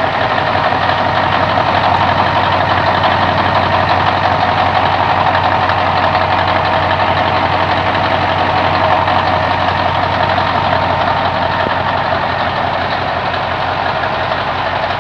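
Caterpillar 3408 pre-cup V8 diesel in a 1978 Peterbilt 352H cabover idling steadily and evenly, running sweet.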